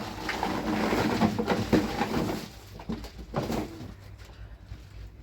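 Bird calls, dense for the first two and a half seconds, then thinning out.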